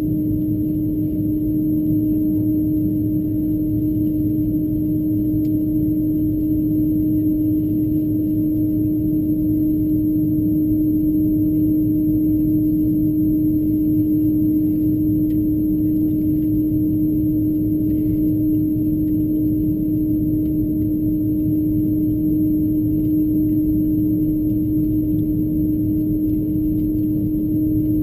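Steady cabin drone of an Airbus A330-200 taxiing with its engines at idle: an even low rumble under a constant low hum tone, with no change in level.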